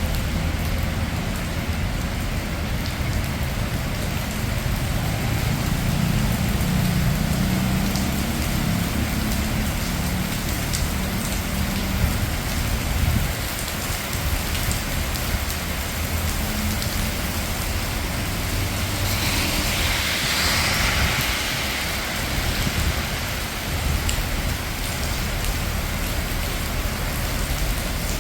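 Steady rain falling on city streets with traffic under it: a low rumble of passing vehicles in the first half, and a louder hiss of tyres on a wet road swelling and fading about two-thirds of the way through.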